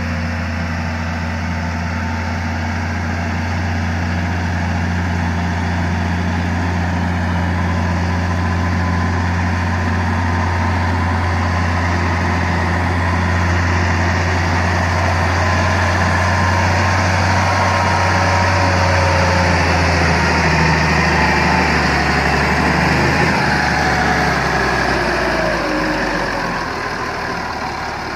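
Massey Ferguson tractor's diesel engine running steadily, with a few faint squeals in the later part; near the end the engine note drops.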